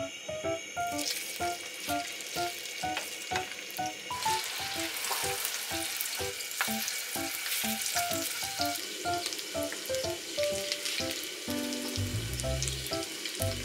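Mushroom pancakes (beoseotjeon) sizzling as they fry in oil in a pan. The sizzle starts about a second in, over a light plucked background tune, with a few low bumps near the end.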